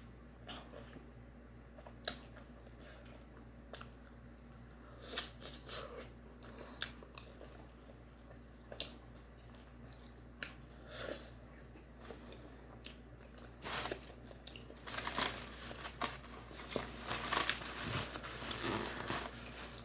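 Close-up eating sounds: a person biting and chewing crunchy food, with scattered sharp crunches that come thicker and louder over the last few seconds.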